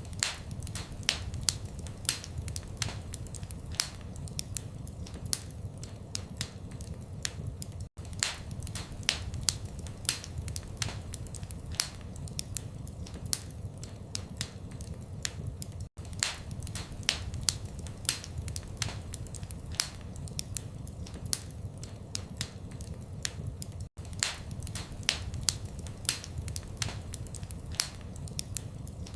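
Wood fire crackling in a fireplace: frequent sharp pops and snaps over a low steady rumble. The sound cuts out very briefly about every eight seconds.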